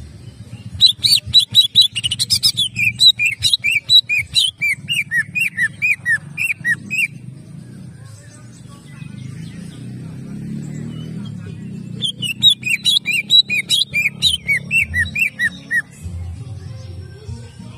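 Green leafbird (cucak ijo) singing in two rapid-fire bursts of loud, sharp, falling chirps, one about a second in and another at about twelve seconds, each lasting several seconds: the fast 'tembakan' song of a bird in full voice.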